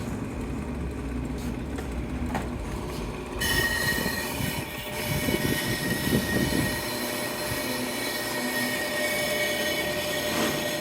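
Ammco 4000 brake lathe running with a low hum; about three and a half seconds in, a steady high-pitched metallic squeal sets in and holds.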